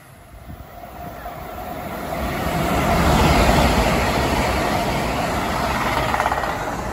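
GWR Class 800 train approaching and passing close by: the rush of wheels on rail builds from faint to loud over about three seconds, then stays loud as the carriages run past.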